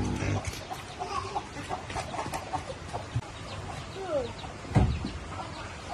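Chickens clucking in short scattered calls, with one loud thump about three-quarters of the way through.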